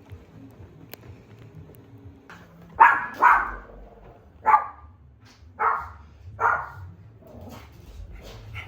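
Small Maltese-Pomeranian mix dog barking five times, two quick barks about three seconds in, then three single barks roughly a second apart.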